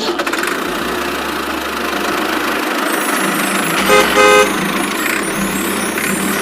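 A vehicle engine running steadily, with two short horn toots about four seconds in.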